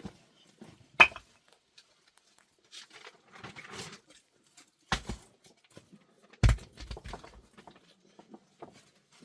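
Three sharp knocks, about a second, five seconds and six and a half seconds in, with softer scraping and rustling between them.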